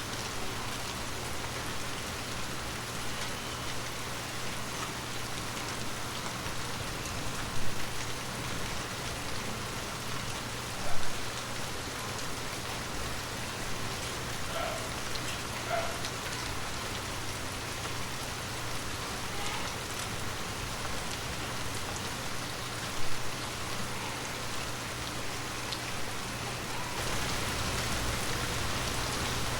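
Heavy rain falling steadily, with a few louder drops hitting now and then; the rain grows a little louder near the end.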